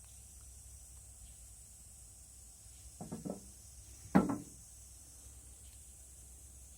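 A few light knocks in quick succession about three seconds in, then one louder sharp knock a second later: hard objects being handled and set down.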